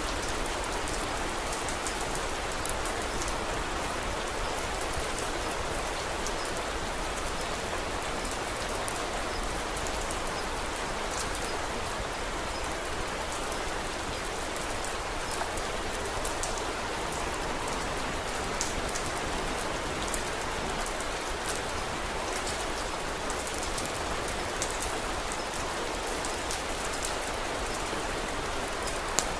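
Steady rain falling, an even hiss with many small sharp ticks scattered through it and one louder tick near the end.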